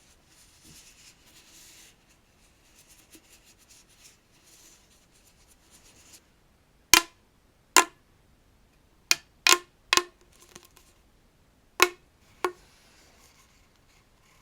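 Faint scratching for the first half, then seven sharp, loud taps at uneven spacing, each very short.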